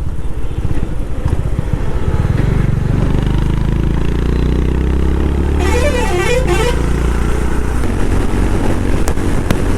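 Honda H'ness CB350's single-cylinder engine and exhaust running hard at highway speed, around 120 km/h, mixed with wind and road noise. A short wavering horn-like tone sounds about six seconds in.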